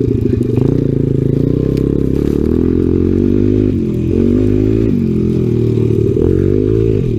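Honda XR 100's small four-stroke single-cylinder engine running under way, its pitch rising and falling several times with the throttle.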